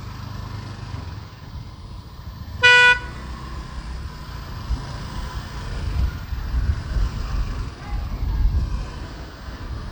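City street traffic heard from a moving motorbike, a steady low rumble throughout. A vehicle horn honks once, briefly, about two and a half seconds in.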